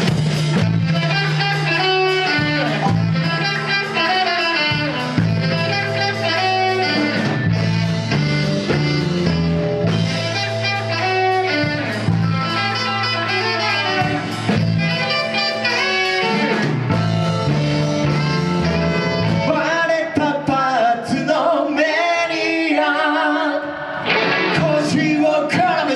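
Live band playing a song's instrumental introduction: a steady, repeating bass line under guitar and a lead melody. From about 20 seconds in the bass drops away and the lead line wavers on alone before the full band comes back near the end.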